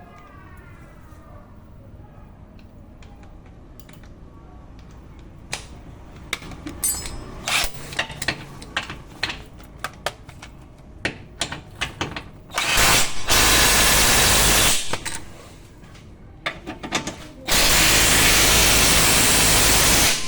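Metal tools clinking and knocking, then a power tool run in two loud, steady bursts of about two and nearly three seconds, one for each of the control arm's two bolts being tightened.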